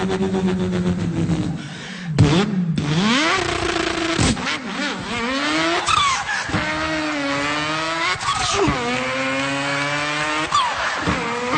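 A man imitating a car engine with his voice: a steady held note at first, then revs that climb in pitch and drop suddenly several times, like a car accelerating through the gears.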